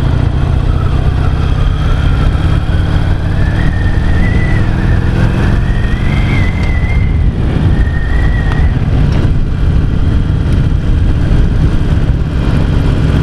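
A 2009 Harley-Davidson XL883C Sportster's air-cooled V-twin running on its stock exhaust pipes while the bike is ridden along the road. The engine note shifts about halfway through.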